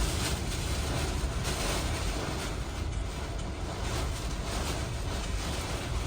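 Hurricane wind blowing hard and buffeting the microphone: a steady rushing noise with a deep rumble underneath.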